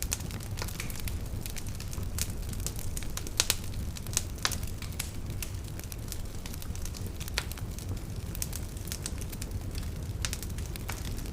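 Wood fire crackling and popping, with irregular sharp snaps, a few louder pops, over a steady low rumble.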